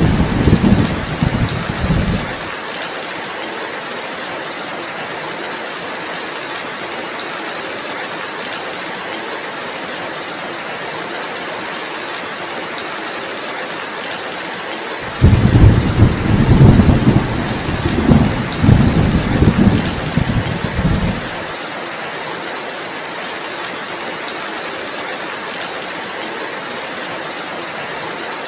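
Heavy rain falling steadily, with rumbles of thunder: one dies away about two seconds in, and another rolls in about halfway through, lasts some six seconds and ends abruptly.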